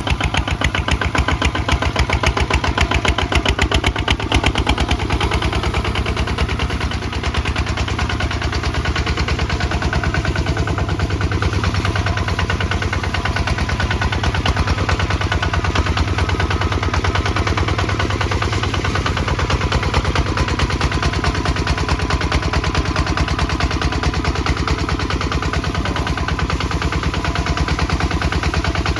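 Kubota ZT155 DI single-cylinder diesel two-wheel tractor engine running steadily under plowing load, with rapid, even firing pulses.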